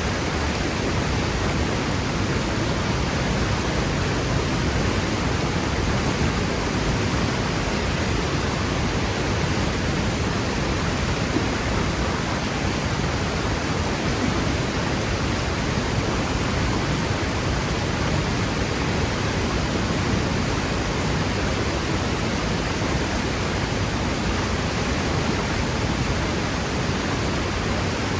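Waterfall crashing steadily: a constant, even rush of falling water with no let-up or change.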